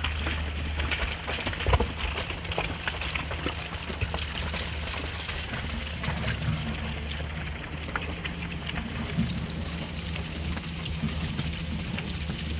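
Excavator engine running steadily, with many small stones clattering and pattering down throughout.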